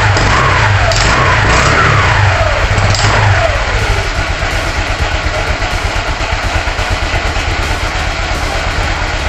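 Motorcycle engine revved a few times, its pitch rising and falling, then running at a steady idle.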